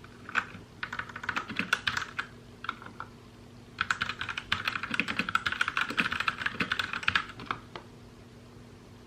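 Typing on a mechanical keyboard. There is a short run of keystrokes about a second in, a few stray taps, then a longer stretch of rapid, continuous keystrokes from about four seconds in to about seven.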